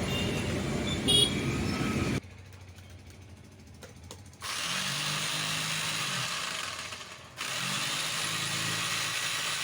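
Dong Cheng 5 kg electric breaker hammer test-run in two runs of about three seconds each, with a short break between. Before that come a sharp click and a stretch of quieter noise.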